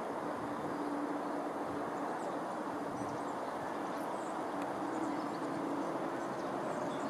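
Thameslink Class 700 electric multiple unit giving a steady hum and rumble, with no rise or fall in pitch, while faint birds chirp.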